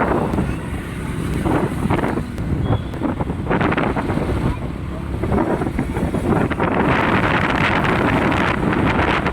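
Rumble of vehicle engines in a road traffic jam, with wind buffeting the microphone.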